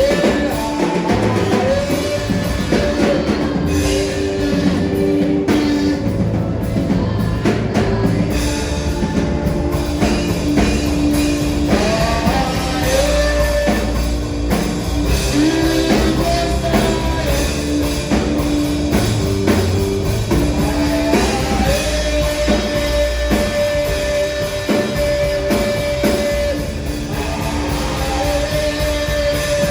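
Worship band music: drum kit and electric guitar with long held notes over a steady beat, with singing.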